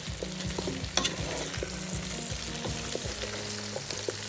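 Potato chunks and onions frying in oil in a pot, sizzling as they are stirred, with frequent small scrapes and knocks of the stirring utensil against the pot; one sharper knock about a second in.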